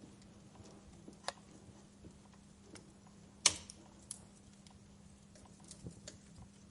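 Wood fire in a fireplace crackling with scattered sharp pops, the loudest about three and a half seconds in, over a faint steady hum.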